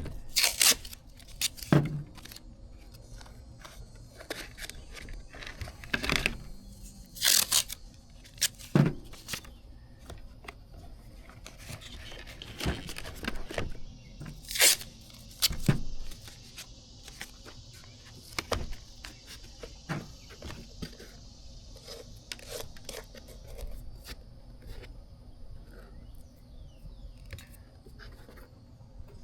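Adhesive tape pulled off the roll and torn into strips several times, with short knocks and rustles of handling as it is pressed down.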